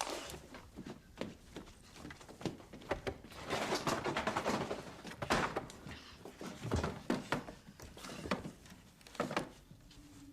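A series of scattered knocks and thuds, with a stretch of rustling noise about four seconds in.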